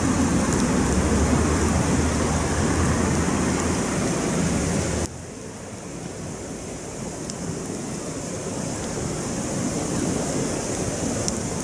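Campfire burning: a steady rushing hiss with a few faint pops. About five seconds in the level drops suddenly and the low rumble goes, leaving a quieter hiss that slowly builds.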